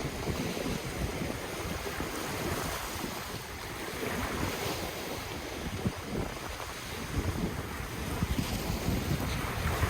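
Ocean waves washing in continuously, with wind on the microphone adding an uneven low rumbling buffet.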